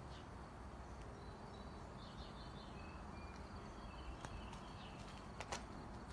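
Faint outdoor ambience with a few short bird chirps partway through and a couple of footstep-like clicks in the second half.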